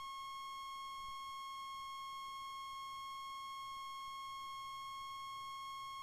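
A steady, high electronic tone, held at one unchanging pitch with no other sound behind it.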